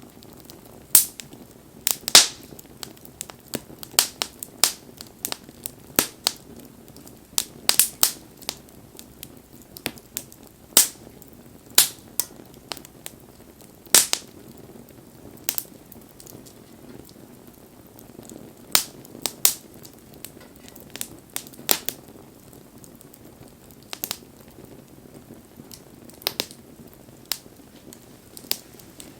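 Wood campfire crackling: irregular sharp pops and snaps, a few much louder than the rest, over a faint steady hiss of burning.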